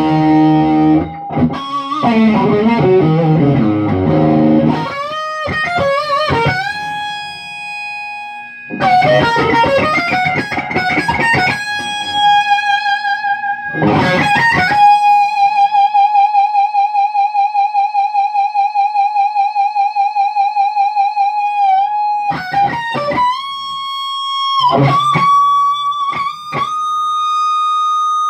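Electric guitar with Lindy Fralin pickups played through an amplifier: chords and low riffs for the first few seconds, then a lead line of single high notes held long with wide vibrato. Near the end come several string bends and a long sustained note.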